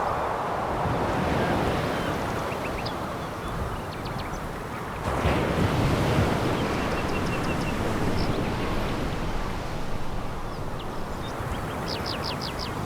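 Sea waves breaking and washing on a pebble beach, a steady rushing wash with a louder wave surging in about five seconds in. A few short runs of faint, high clicks sit above the wash.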